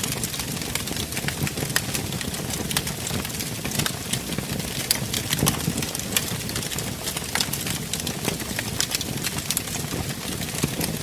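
Fire burning in a fireplace, crackling: frequent sharp, irregular pops over a steady low rumble of the flames.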